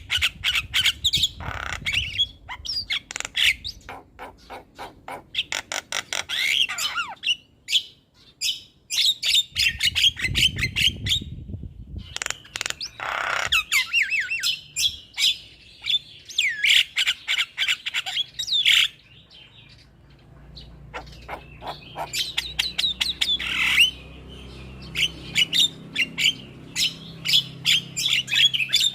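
Javan mynas chattering: fast runs of harsh squawks, clicks and chirps, broken by a short lull about two-thirds of the way through.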